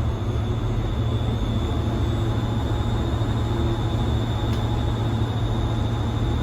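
Steady background machinery drone: a constant low hum with a thin high whine above it.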